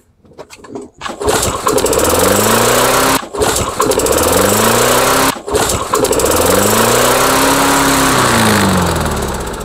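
Single-cylinder lawnmower engine pull-started and catching about a second in, then running loud and fast, its speed surging up and falling back three times with two brief breaks. It runs out of control, racing, which the owner puts down to sticking governor linkages.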